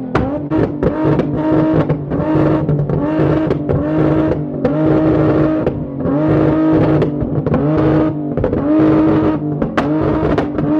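Car engine revving in repeated blips, its pitch rising and falling back about once a second.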